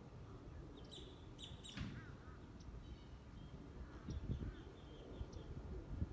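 Small birds chirping in short, high calls, a quick cluster about a second in and scattered calls after, over a low rumble with a few dull bumps on the microphone.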